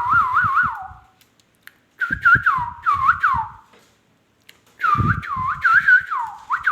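A warbling whistle that rapidly wavers up and down in pitch, in three bursts with short pauses between them.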